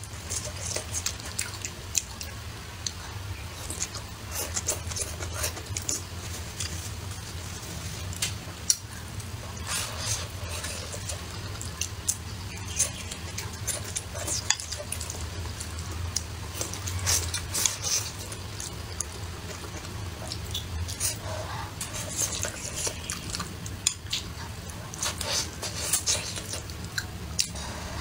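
Close-miked chewing and wet mouth sounds of a person eating saucy stir-fried green chili peppers and eggplant, with many short clicks and smacks, over a steady low hum.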